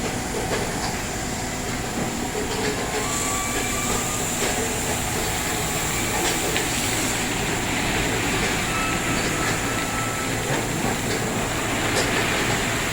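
Tunnel car wash machinery running: a steady rushing, rumbling wash noise with occasional light knocks and clicks.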